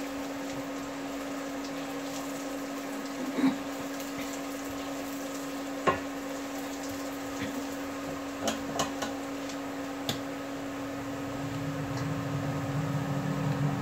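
Garlic sizzling in butter in a pan as it browns, with a spatula knocking and scraping against the pan a few times. A steady low hum runs underneath.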